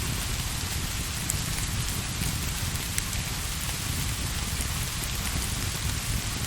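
Steady rain falling, an even hiss over a low rumble, with a few faint sharp ticks.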